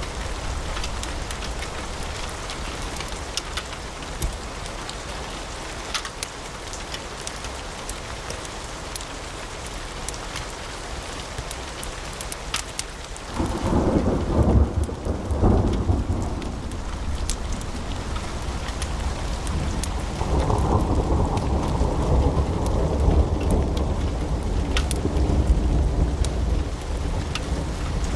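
Wood fire in a fireplace crackling with a steady hiss and frequent sharp pops. About halfway through, a loud, deep rolling rumble comes in and swells twice.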